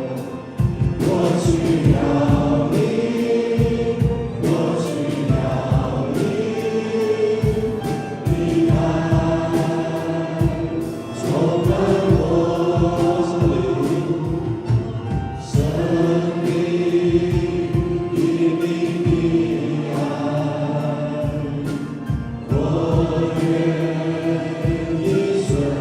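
Christian worship song: a group of singers in harmony over a band with keyboard and a steady beat.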